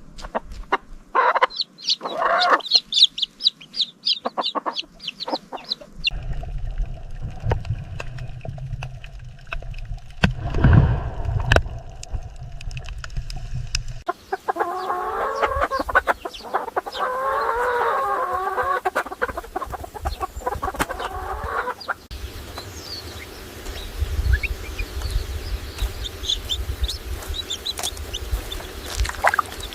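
Chickens clucking and calling, in several short clips whose background noise changes abruptly at each cut.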